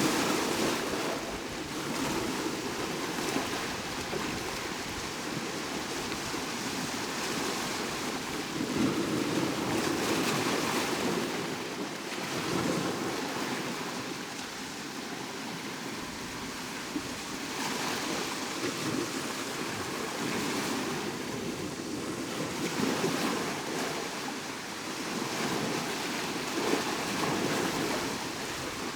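Sea waves breaking and washing up the shore, the wash swelling and fading in surges every few seconds.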